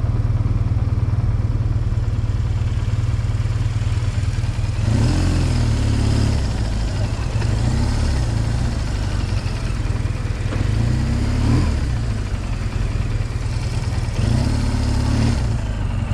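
BMW R1200GS boxer-twin motorcycle engine running on the move, its pitch rising and falling three times in the second half as the revs climb and drop.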